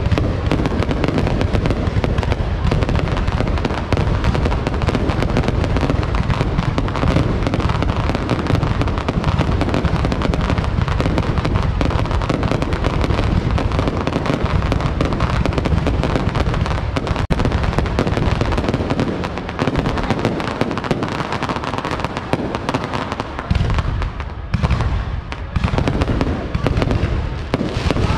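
Fireworks display: a dense, continuous barrage of bangs and crackles, getting a little patchier near the end.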